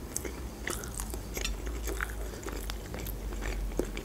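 A person chewing food with the mouth closed, close to the microphone: soft wet mouth smacks and small clicks, a few each second.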